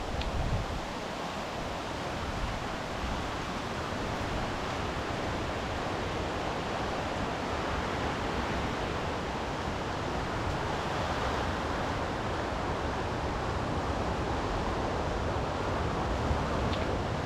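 Steady rushing of sea surf and wind on the Kattegat coast, swelling and easing gently, with low gusts of wind buffeting the microphone.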